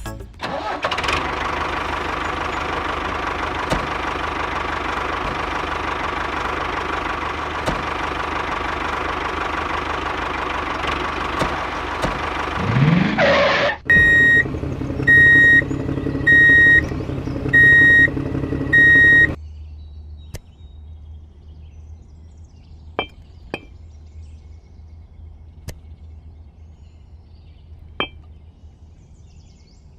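Vehicle engine running steadily, ending in a short rising whine. Then five evenly spaced high beeps like a reversing alarm sound over a low hum. After that it turns quiet, with a few sharp clicks.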